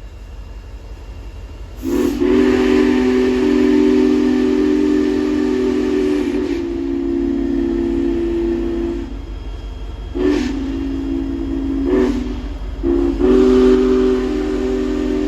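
Big Boy steam locomotive's chime whistle sounding a chord of several notes with steam hiss: one long blast, two short ones, then another long blast, over a steady low rumble.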